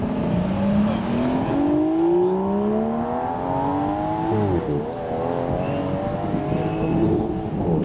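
A supercar's engine accelerating, its pitch rising steadily for about four seconds. About four and a half seconds in there is a quick gearshift, with a brief drop in revs, and then the engine pulls up again.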